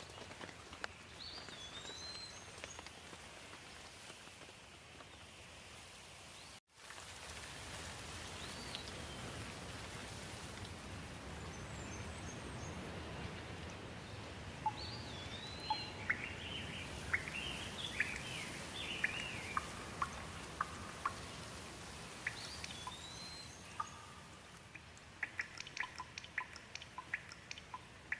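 Steady rain with birds calling through it: repeated rising-and-falling whistled calls and a stretch of quick chirping. There is a brief gap in the sound about six and a half seconds in, after which the rain is a little louder. Near the end comes a run of sharp drip-like ticks.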